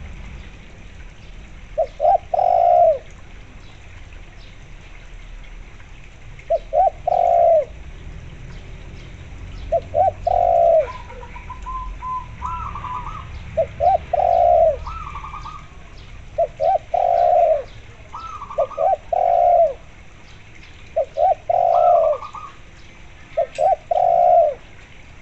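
A spotted dove cooing over and over, each phrase a couple of short notes running into a longer coo, about every two to four seconds. From about a third of the way in, a zebra dove's higher, fainter trilling coos answer between the phrases.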